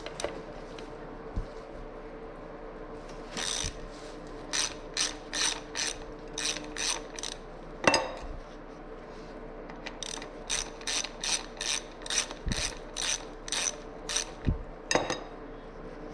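Hand ratchet wrench clicking in strokes, about two to three clicks a second, as the rear sprocket bolts are undone. It comes in two runs, with a sharp metal clank about eight seconds in and a knock near the end.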